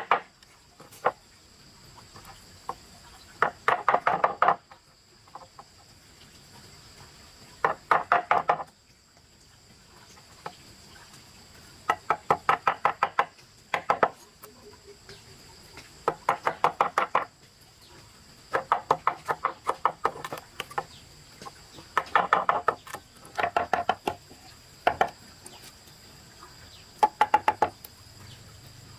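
Runs of rapid knocking, about eight to ten sharp strikes a second, each run lasting about a second and repeating every few seconds, as of work on the gate. A steady high insect drone runs underneath.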